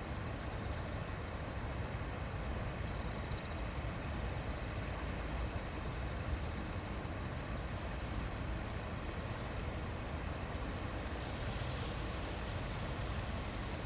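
Shallow river babbling and rushing over stones, a steady, unbroken water sound.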